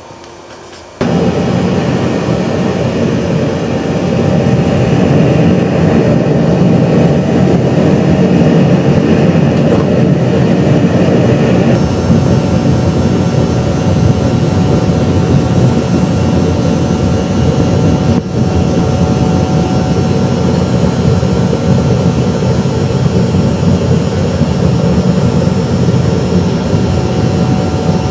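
A loud, steady machine noise starts abruptly about a second in and runs on evenly, its tone shifting slightly about twelve seconds in.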